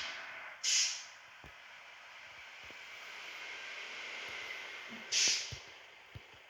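A bus's compressed-air system letting off short bursts of hissing air three times, the last about five seconds in, over a steady, lower hiss while the engine warms up.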